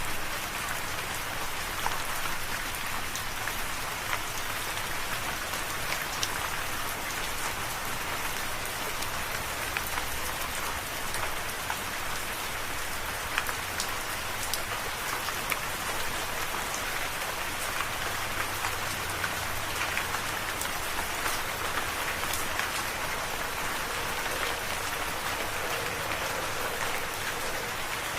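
Steady rain falling, a constant hiss with many scattered individual drops landing as sharp ticks.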